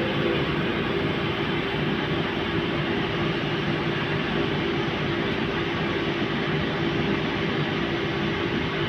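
Fagor washing machine running on its Delta MS300 variable-frequency drive: a steady machine hum with two steady tones.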